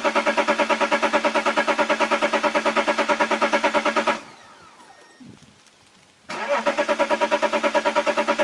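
Diesel engine with an even chugging pulse, about six or seven beats a second, during a cold start. The sound drops away about four seconds in and comes back abruptly about two seconds later.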